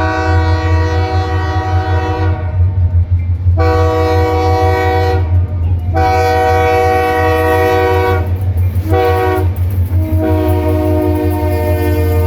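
Diesel locomotive air horn blowing a chord in a series of blasts: several long ones, then a short one and another long one held, the long-long-short-long pattern sounded for a grade crossing. A steady low engine rumble runs beneath.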